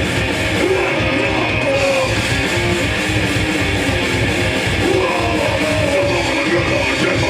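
Hardcore punk band playing live: distorted electric guitars, bass and fast drums, with yelled vocals.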